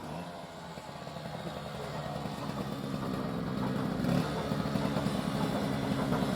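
An engine running steadily, growing slowly louder.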